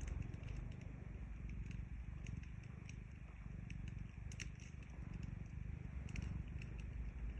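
A cat purring steadily, a low continuous rumble, with the sharp pops and crackles of a campfire scattered over it.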